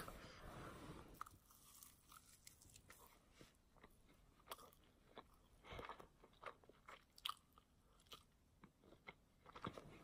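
Faint, close-miked chewing of a mouthful of burger: irregular soft mouth clicks and smacks, a few of them sharper.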